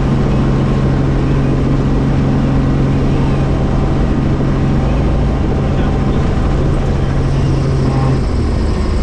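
Helicopter running steadily, a loud continuous rotor and engine noise with a low steady hum that drops out about eight seconds in.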